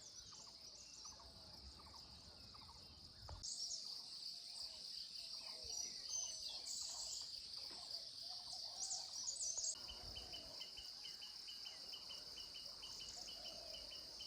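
Rural outdoor ambience: a steady high-pitched insect drone with scattered short bird chirps. From about ten seconds in, a rapid, even series of short high ticks, about four a second, joins the drone.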